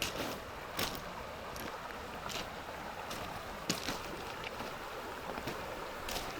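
Footsteps crunching on a gravel trail at an easy walking pace, about one step every 0.8 s, over the steady rushing of a river.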